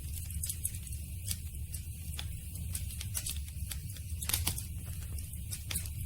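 Campfire crackling: irregular sharp snaps and pops of burning wood, several a second, over a steady low rumble of the flames. The loudest pop comes about four and a half seconds in.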